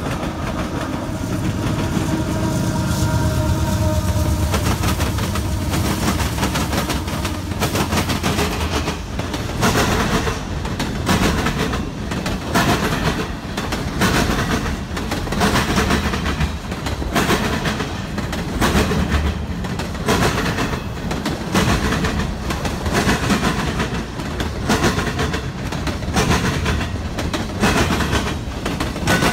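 CSX freight train passing close by: a heavy low rumble with a few held tones in the first few seconds, then the wheels clacking over rail joints about once a second as the cars roll past.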